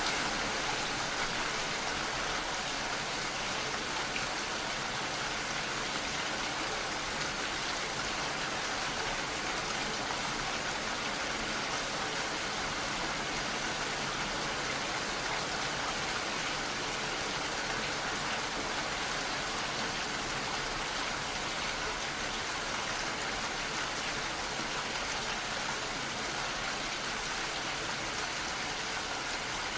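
Steady rain falling, an even hiss of many drops that keeps on without change.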